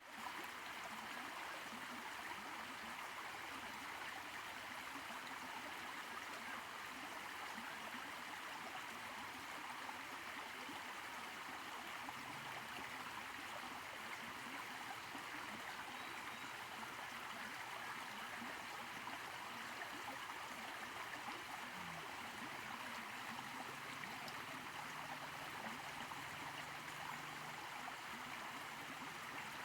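Water of a small waterfall and stream rushing and splashing steadily over rocks.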